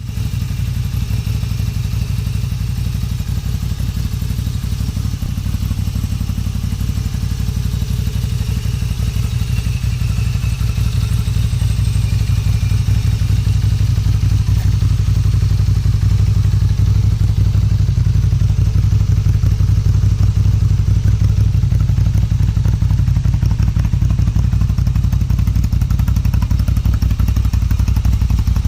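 Moto Guzzi V7 Special's 853 cc air-cooled transverse V-twin idling steadily through aftermarket Agostini silencers, a deep even exhaust beat.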